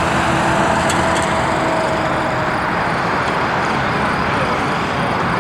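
Jet aircraft engines running, a loud steady noise with a faint tone that sinks slightly in pitch during the first few seconds.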